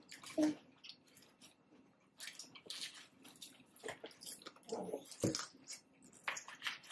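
A person chewing taco salad with wet mouth smacks and clicks, a string of short irregular sounds with small pauses between.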